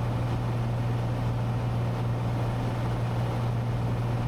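Steady cabin drone of a Cessna 182T in flight: its six-cylinder Lycoming IO-540 engine and propeller giving one strong low hum over a wash of airflow noise, even and unchanging.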